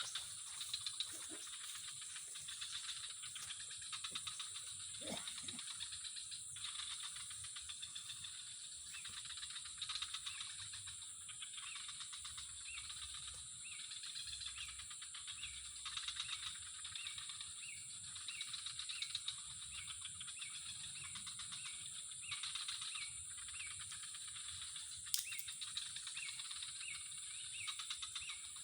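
Night-time-style insect chorus: a steady high-pitched drone over a fast pulsing chirr. From about halfway through, short chirps repeat roughly twice a second, and there is one sharp click near the end.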